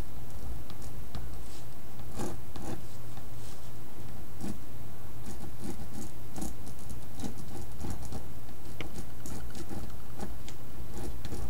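Pen scratching on paper in many short, irregular strokes as marks are drawn, over a steady low hum.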